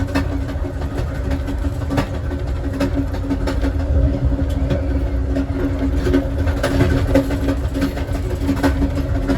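Passenger train car rolling along the track, heard from inside the rear car: a steady low rumble with a constant hum and scattered clicks and knocks from the wheels and car body.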